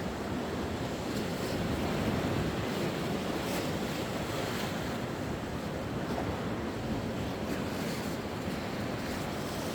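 Sea waves washing onto the shore in a steady surge, with some wind noise on the microphone.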